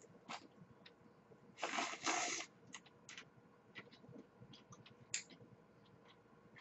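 Close-miked eating sounds: a person chewing food, with small wet mouth clicks scattered throughout and one louder, noisy burst lasting under a second about two seconds in.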